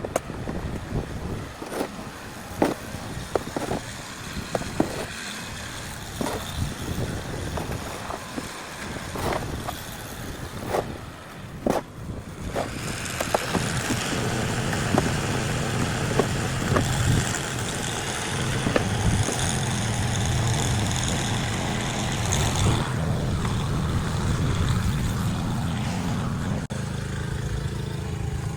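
Snow shovel scraping and chopping into snow in short, irregular strokes. About twelve seconds in, a steady, louder motor sound with a low rumble and a hiss takes over.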